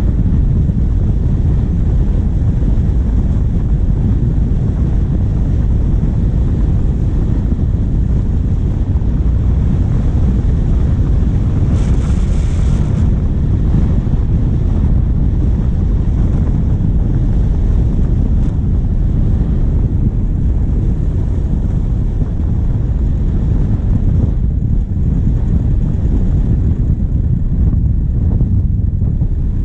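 Wind buffeting a bonnet-mounted action camera's microphone over the steady low rumble of a diesel vehicle driving, with a brief brighter hiss about twelve seconds in.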